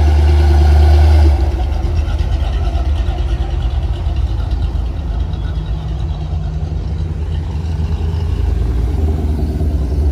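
Motor vehicle engine running with a steady low rumble, heaviest for about the first second and a half.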